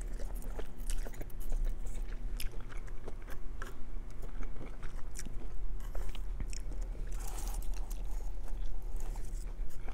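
Close-up chewing of a mouthful of vegan sweet and sour chicken, with many small wet mouth clicks and smacks. Near the end a forkful of chow mein is taken in.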